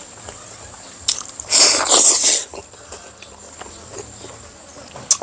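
A person biting and chewing food, with one loud burst of noise about a second and a half in that lasts about a second.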